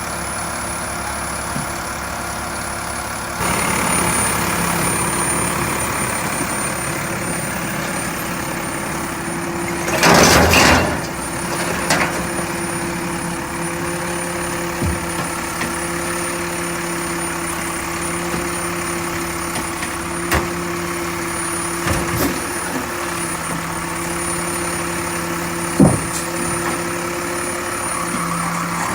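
Mack LEU recycling truck's diesel engine running steadily, getting louder from about three and a half seconds in. A short loud hiss of air comes about ten seconds in, and several sharp knocks follow later.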